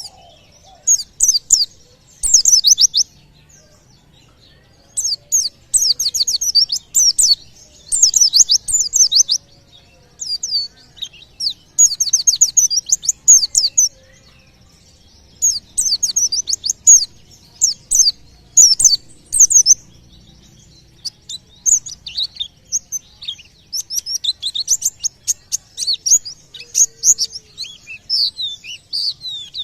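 White-eye (pleci) singing in rapid bursts of high chirps, each about a second long, one after another with short pauses and coming faster near the end. This fast 'shooting' song is believed to draw nearby birds into singing.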